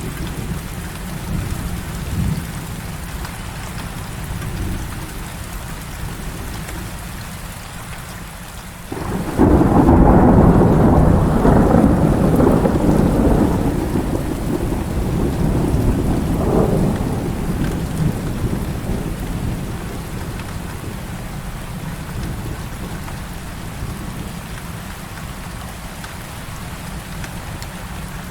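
Heavy rain falling steadily. About nine seconds in, a clap of thunder breaks in suddenly and rumbles loudly for several seconds before slowly fading back under the rain.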